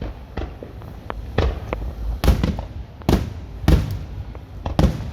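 Fireworks going off in quick, irregular succession: sharp bangs and pops, about a dozen in five seconds, over a steady low rumble.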